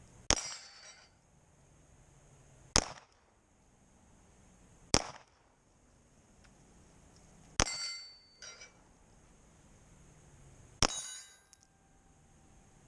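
Five pistol shots fired at a slow, deliberate pace, two to three seconds apart. Several are followed by a brief metallic ring as a steel plate target is hit.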